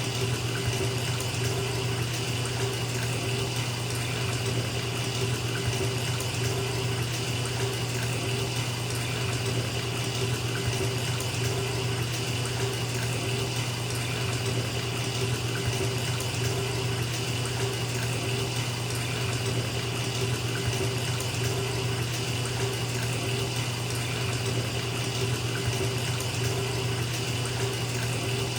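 Bathtub faucet running steadily, water pouring into a filling tub.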